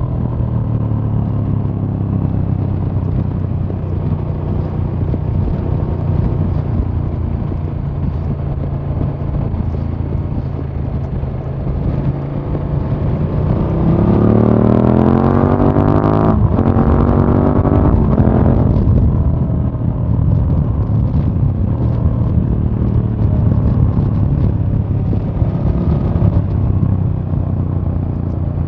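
KTM 1290 Super Duke R's 1301 cc V-twin engine, recorded onboard while riding. It runs at steady cruising revs, then about halfway through revs up with a rising note, drops sharply once, rises again and settles back to a steady cruise.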